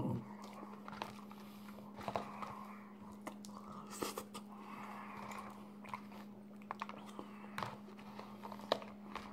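Close-up chewing of a mouthful of McDonald's Big Mac, with scattered sharp wet mouth clicks and crunches, over a steady low hum.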